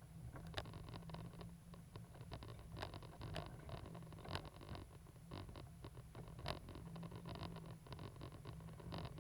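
Low, steady rumble of a Caterpillar 320GC excavator's diesel engine, with dense irregular scratching and clicking over it, a few sharper clicks standing out.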